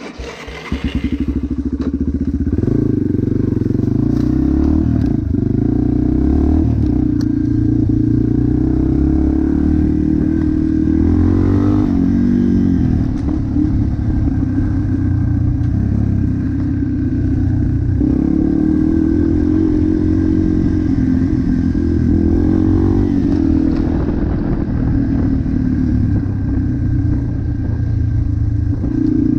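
A motocross bike's engine running loud and close, coming in suddenly about half a second in. Its pitch rises and falls as the throttle is worked, with a few short knocks over it.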